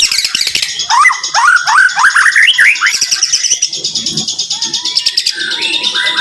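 White-rumped shama (murai batu) singing a rapid, densely packed 'tembakan rapat' song. About a second in comes a run of quick rising whistled notes, over fast high chattering trills that keep going.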